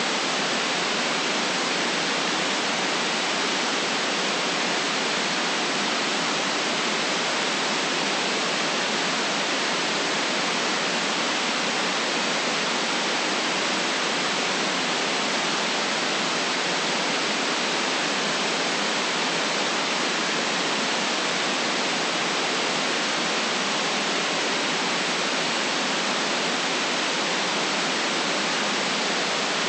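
Continuous white noise: a steady, unchanging hiss with no deep bass, brightest in the upper range.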